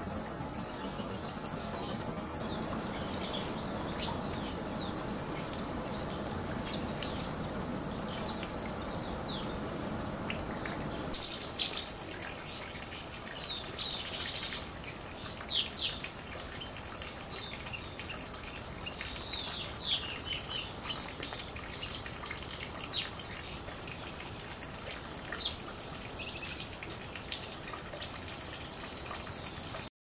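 Water trickling and splashing for the first ten seconds or so, under a thin, steady high tone that comes and goes. From about eleven seconds in, many short, high chirps of small white-eyes, scattered irregularly with a few louder ones.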